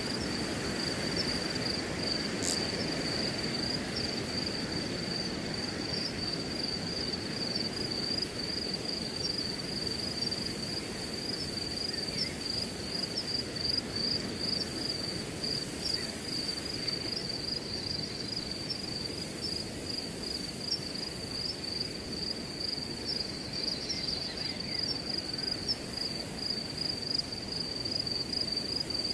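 Wind rushing steadily through a grass field, with crickets chirping in a continuous, even, high-pitched trill over it. A single short click about two and a half seconds in.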